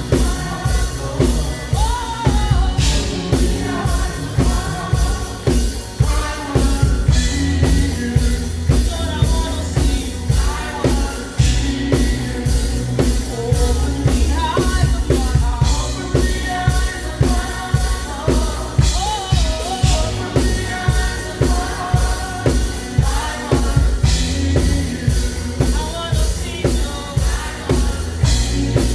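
Live gospel praise band playing a song, with singers over a drum kit keeping a steady, busy beat.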